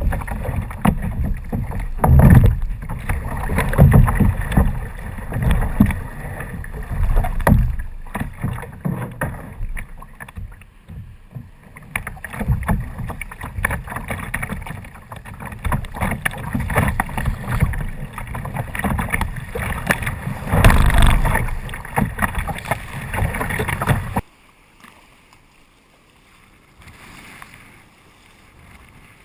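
Kayak moving on the water: rushing, splashing water with an uneven low rumble. About five seconds before the end it drops off suddenly to a faint hiss.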